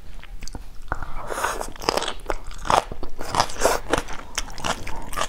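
Close-up chewing of crunchy garlic-stir-fried water spinach (morning glory) stalks with rice. Repeated crisp crunches start about a second in and go on at a few per second, picked up close by a clip-on collar microphone.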